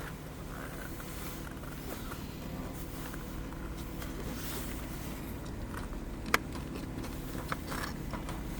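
Hands working a car's hood release and latch: a sharp click about six seconds in and a few lighter clicks soon after, over a steady low hum.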